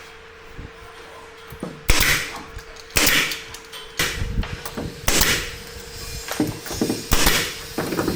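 A series of sharp knocks from carpentry work, about five blows at irregular gaps of one to two seconds, over a faint steady hum.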